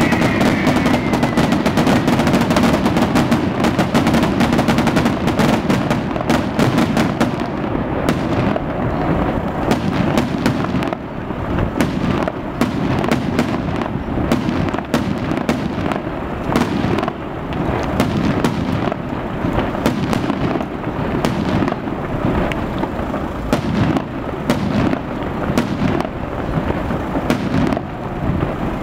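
Fireworks going off close by: a dense rush of launching and hissing in the first few seconds, then from about eight seconds in a rapid, continuous run of sharp bangs and crackles.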